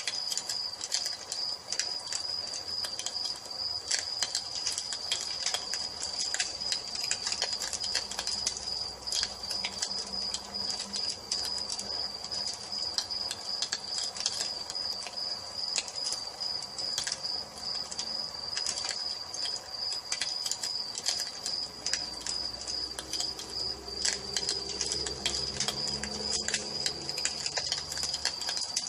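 Wood fire crackling with irregular sharp pops, over crickets chirping in a steady high trill. A low call is heard faintly near the end.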